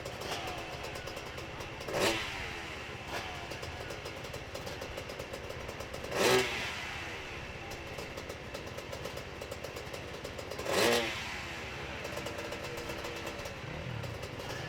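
Hill-climb motorcycle engine running under load, with three short sharp surges of revs about four seconds apart.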